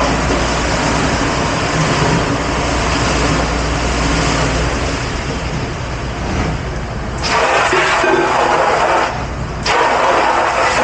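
Steady, loud rushing noise of a commercial dish pit at work, water spray and dish machinery. It drops off briefly twice near the end.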